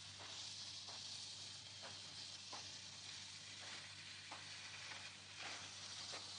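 Faint steady hiss over a low hum, with soft, irregular ticks about once a second.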